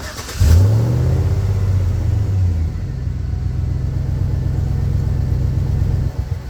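SUV engine cranked briefly and starting about half a second in, flaring up in revs and then settling to a steady idle after a couple of seconds.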